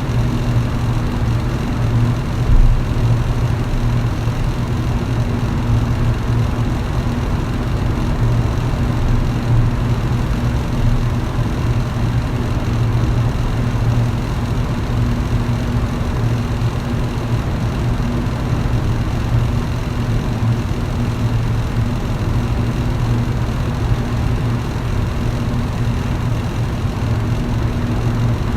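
Electric fan running at a constant speed: an even rush of air over a steady low motor hum.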